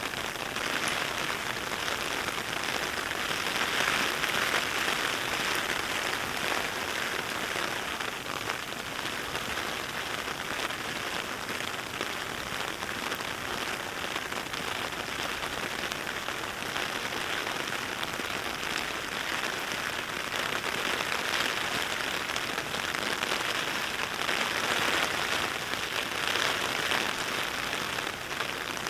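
Heavy rain falling, a dense steady hiss of drops that swells slightly a few seconds in and again near the end.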